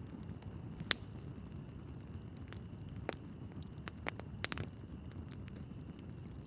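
Wood logs burning in a fireplace: a low steady rumble of flames with sharp crackles and pops scattered through, the loudest about a second in and a quick cluster of pops about four and a half seconds in.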